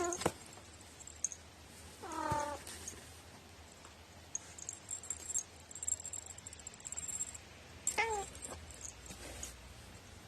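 Domestic cat meowing three times: a short call at the start, a longer wavering one about two seconds in, and a short one near the end. The meow has a peculiar, quirky voice.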